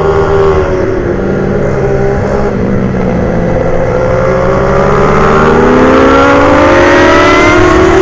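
Motorcycle engine running hard on a race track, its pitch falling as it slows over the first few seconds, then rising steadily and getting louder as it accelerates through the second half.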